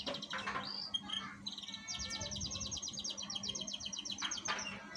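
Domestic canary singing: a few short chirpy phrases, then a long, fast trill of rapidly repeated high notes that stops just before the end.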